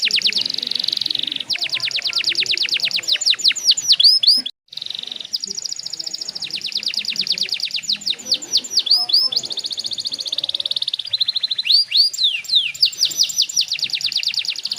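Domestic canary singing a long rolling song of very fast repeated trills and quick downward-swooping notes, with a short break about four and a half seconds in.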